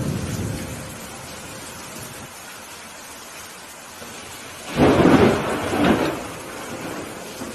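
Steady rain falling during a thunderstorm. A thunder rumble fades in the first second. About five seconds in comes a sudden, sharp thunderclap with a second peak a second later, then it dies away.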